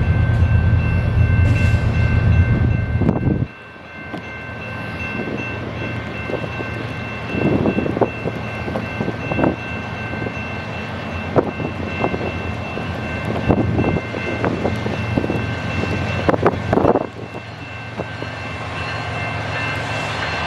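A freight train rolling past. A loud low diesel rumble drops away abruptly about three and a half seconds in. After it come rolling freight cars with many short clicks from the wheels on the rails, under a steady high ringing of several tones.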